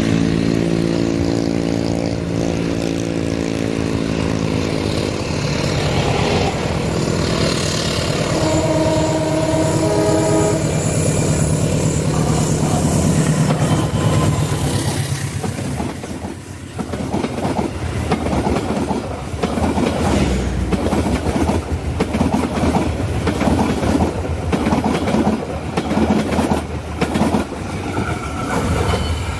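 A passing train. The locomotive's engine note falls in pitch as it goes by, and its horn sounds in short blasts. From about halfway on, the carriages' wheels clack rhythmically over the rail joints of the bridge.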